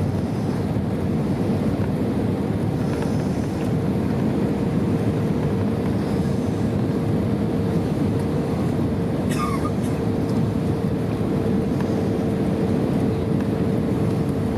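Airbus A320 cabin noise during the landing approach: a steady rumble of engines and airflow with a constant droning hum. A short falling whistle-like sweep sounds about nine seconds in.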